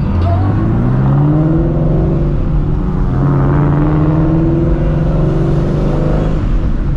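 Procharged Ford Shelby GT350's 5.2-litre flat-plane-crank V8 accelerating, heard from inside the cabin: the engine pitch rises, drops at an upshift about three seconds in, rises again, and drops at another shift near the end.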